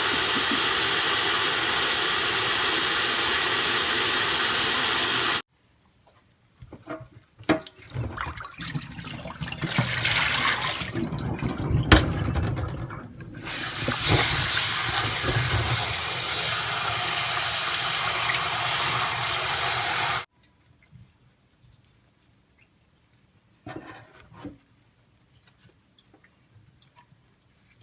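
Tap water running steadily into a sink or bowl, then several seconds of irregular splashing and knocking, then the tap running again until it is shut off sharply about 20 seconds in; a few small clicks follow.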